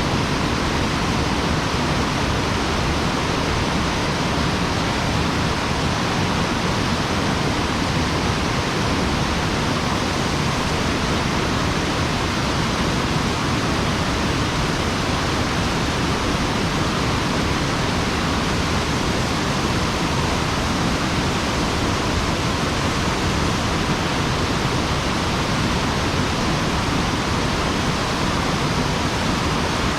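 Steady, unbroken rush of a mountain stream's water.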